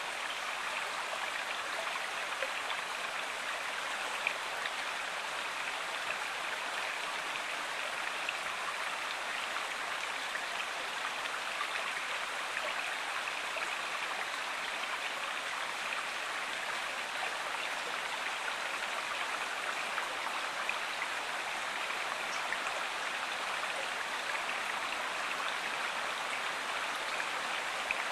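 A stream flowing steadily: an even rush of running water with small splashes scattered through it.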